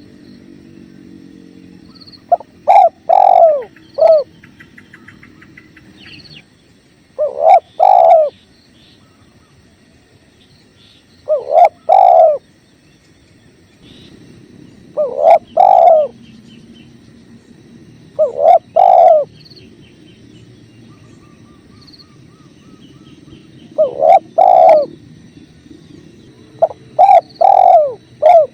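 Spotted dove cooing: a short phrase of a few low coos, repeated seven times at intervals of a few seconds. Beneath it runs a low steady rush of river water, with faint chirps from small birds.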